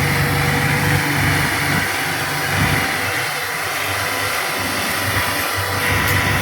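Tractor engine running steadily; its low throb drops away for a few seconds in the middle and comes back near the end.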